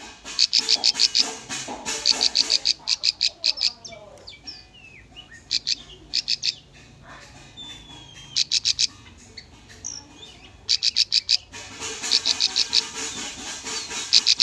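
Bar-winged prinia (ciblek) singing: bursts of rapid, evenly spaced sharp high chips, several notes to a burst, repeated with short pauses. There is a quieter stretch of softer calls in the middle, then the bursts return near the end.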